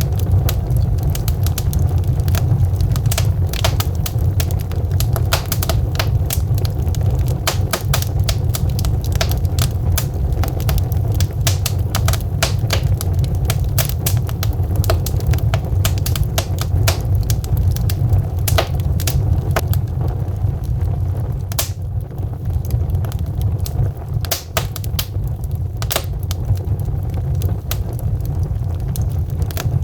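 Wood fire of burning logs crackling, with rapid sharp pops and snaps over a steady low rumble; the crackles thin out about two-thirds of the way through.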